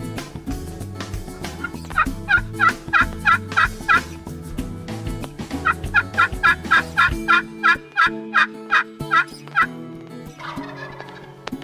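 Turkey yelping: two runs of rapid, evenly spaced yelps, about three a second, the second run longer than the first.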